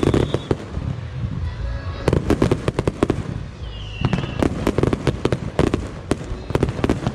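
Aerial fireworks going off in rapid clusters of sharp bangs and crackles over a low rumble, with a short whistle about four seconds in.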